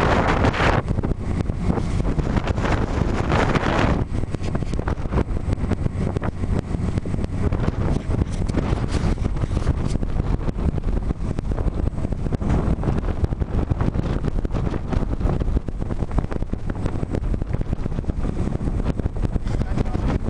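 Wind buffeting the microphone on the deck of a sailboat at sea, a steady low rumble with stronger gusts during the first four seconds.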